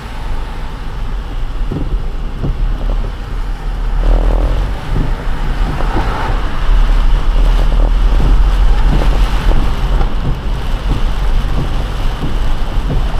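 Car driving on a rain-soaked road: steady tyre hiss and road rumble with wind noise and the ticking of water, getting louder about four seconds in and again a little later.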